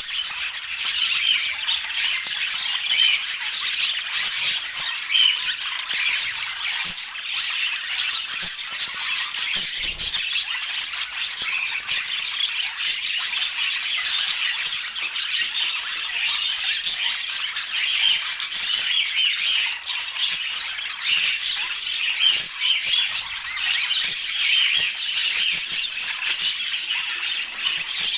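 Budgerigars chattering and squawking: a dense, unbroken stream of short chirps and harsh calls.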